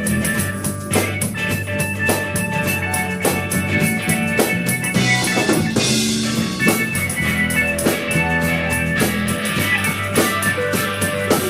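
A rock band playing live: electric guitar and drum kit with a steady beat, a crash of cymbal wash about five seconds in.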